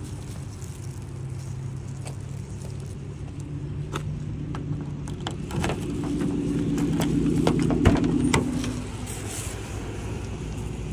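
A car engine running with a steady hum that swells louder in the middle and fades again. Over it come a handful of clicks and a sharp clack about eight seconds in: the van's side-door handle and latch being worked to open the door.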